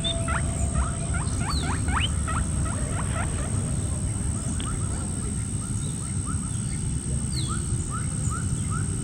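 Small animal chirping: a run of short rising squeaks, settling into about four a second in the second half. Under it runs a steady low rumble and a constant faint high whine.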